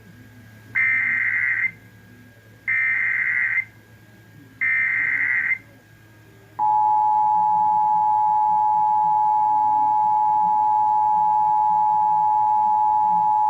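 Emergency Alert System SAME header: three short bursts of data tones, each about a second long, then a long steady attention tone starting about halfway through, which announces a severe thunderstorm warning.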